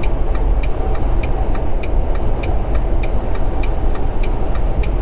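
Steady engine and road rumble inside a Volvo 780 semi truck's cab at highway speed, with a turn signal ticking about three times a second, alternating louder and softer clicks, as the truck heads for a weigh station.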